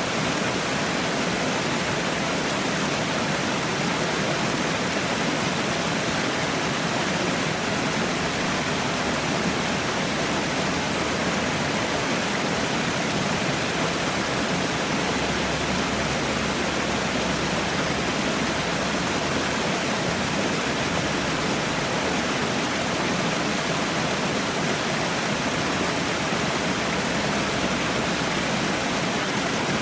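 Falling water, a small waterfall, rushing and splashing in a steady, unbroken hiss.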